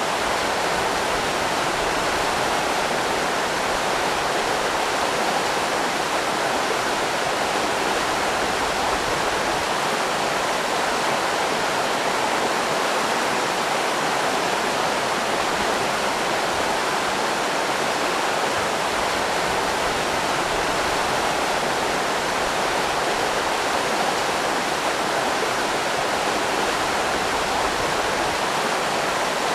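Steady rushing of river rapids: an even roar of water running over rocks, unchanging throughout.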